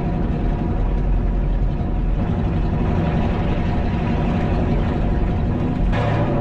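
A heavy diesel engine running steadily at a constant speed, as from farm spraying equipment or a truck.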